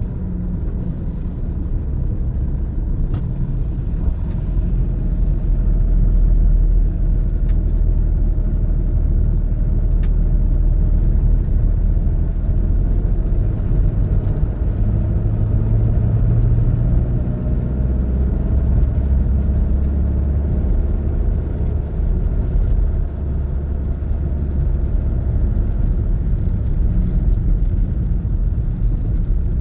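Car on the road with a steady low rumble of engine and tyres; the engine note shifts in pitch a few times.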